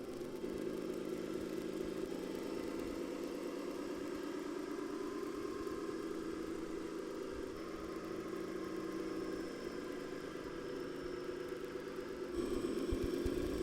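Simulated diesel engine sound from an RC model tractor's sound module, running steadily. It gets louder in a step about half a second in and again near the end.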